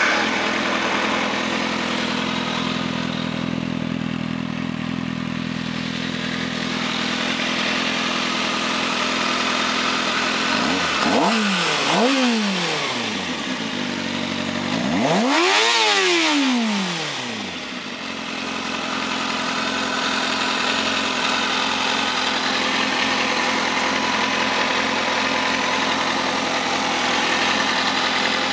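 2008 Kawasaki ZX-6R's inline-four engine idling steadily. Near the middle it is blipped twice in quick succession, then revved once higher, each time dropping straight back to idle.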